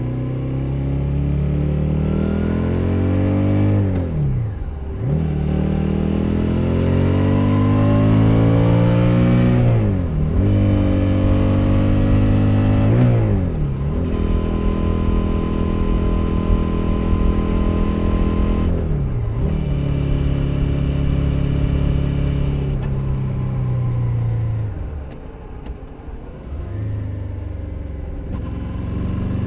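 2021 Suzuki SV 650's 645 cc V-twin engine pulling through the gears. The pitch climbs and drops sharply at each upshift, about 4.5, 10 and 13.5 s in. It then holds a steady cruise, shifts again near 19 s, and eases off about 25 s in.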